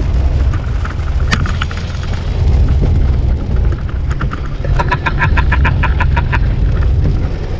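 Steady low rumble of a truck driving on a rain-soaked highway, heard from inside the cab. About five seconds in, a rapid run of short electronic beeps, about six a second, lasts a second and a half.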